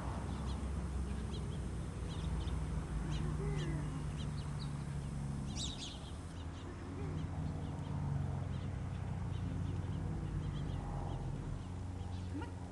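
Small birds chirping, short scattered calls, over a steady low hum.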